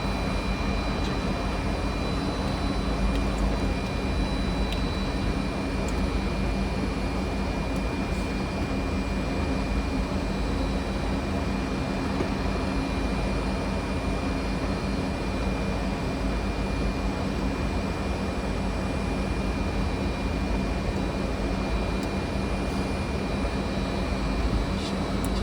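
Steady flight-deck noise of a Fokker 100 in descent on approach: a constant rush of airflow and engine hum, with two faint steady high whines.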